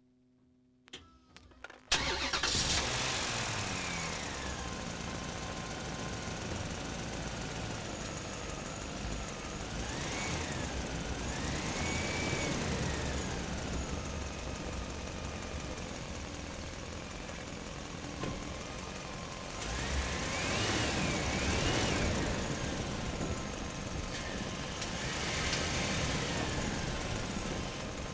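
A few clicks, then an engine-like motor sound starts suddenly about two seconds in and keeps running, with a whine that rises and falls several times.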